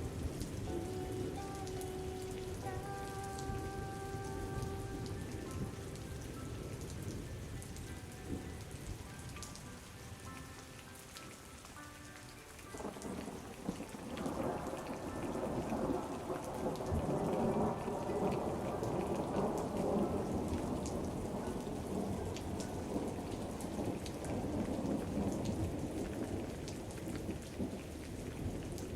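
Steady rain falling, with the ticks of individual drops. About thirteen seconds in, a long roll of thunder starts suddenly, swells and rumbles on to the end.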